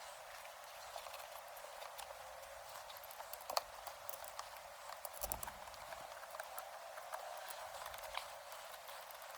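Faint scattered clicks and taps of small metal bolts and shifter brackets being handled and threaded in by hand. The sharpest click comes about three and a half seconds in and a duller knock a little after five seconds, over a steady hiss.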